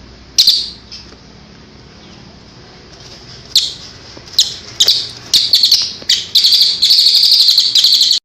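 A songbird singing loud, high-pitched notes. One short call comes about half a second in. From about three and a half seconds a run of sharp notes follows, quickening into a dense, rapid trill that cuts off abruptly at the end.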